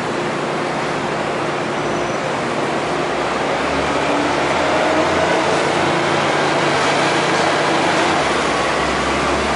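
MTR Tsuen Wan Line train running at speed: a steady rumble and rush of wheels on track. It grows a little louder partway through, with a faint whine rising slightly in pitch.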